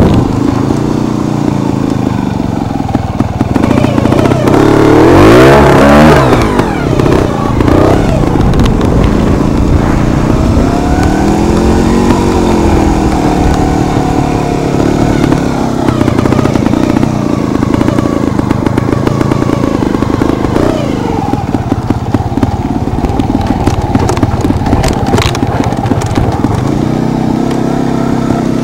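Beta trials motorcycle engine running and being revved up and down as the bike picks its way over rocky ground, with a sharp rise in revs about five seconds in and another around twelve seconds. Occasional knocks and clatter from the bike over the stones.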